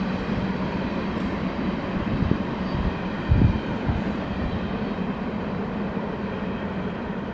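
Passing train: a steady rumble with a held low hum, a loud knock about three and a half seconds in, easing off near the end.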